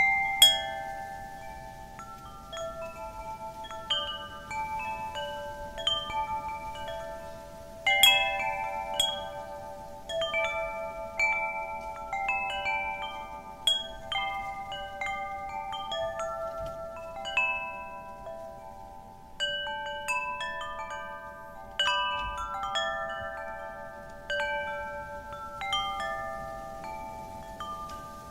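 Wind chimes stirred by the wind, several clear tones struck at irregular moments and ringing on as they fade, over a faint steady wind noise.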